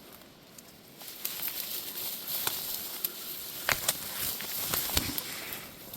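Leaves and branches of dense scrub brushing and rustling as someone pushes through on foot, starting about a second in, with several sharp snaps of twigs breaking.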